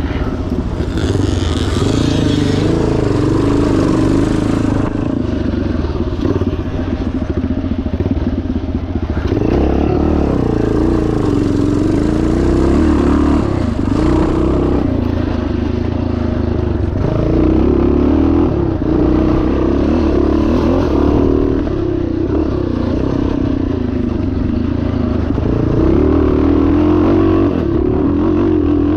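Yamaha TT500's single-cylinder four-stroke engine running hard off-road, revs rising and falling steadily with the throttle, with some clatter from the bike over rough ground.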